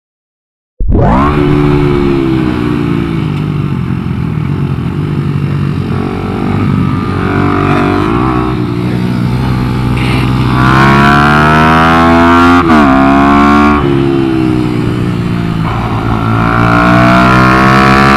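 Minibike engine at racing speed, heard from onboard. Its pitch climbs and drops repeatedly with throttle and gear changes, with a sharp dip and recovery about two-thirds of the way through. It starts after about a second of silence.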